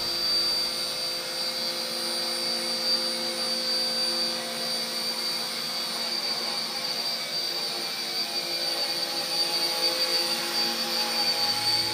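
RC Era C032 UH-1 Huey RC helicopter hovering in place, its small electric motors and rotors making a steady whine with a high, constant tone.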